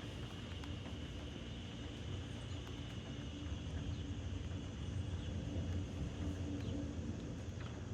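Steady outdoor ambience: a constant low rumble with a faint, steady high-pitched drone like insects, and a few faint ticks.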